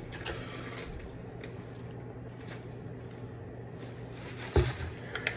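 Faint clicks of eating and utensils over a steady low hum, with one dull thump about four and a half seconds in.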